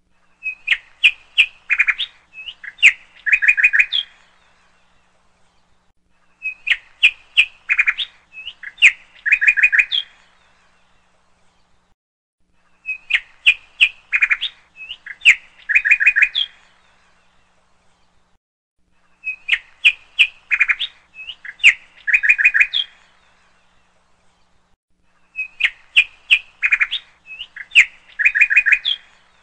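Bird calls: a phrase of sharp chirps followed by short trills, repeated almost identically five times, about every six and a half seconds, with silence between.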